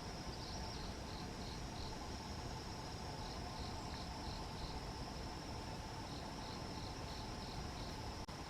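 Insects, cricket-like, chirping in short bouts of about five chirps, a new bout every couple of seconds, over a steady high insect trill.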